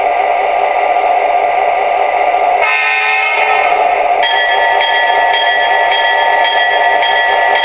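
Sound system of an MTH Premier O-gauge SD24 model diesel locomotive playing simulated diesel locomotive sounds; about four seconds in a locomotive bell starts ringing, about two strikes a second.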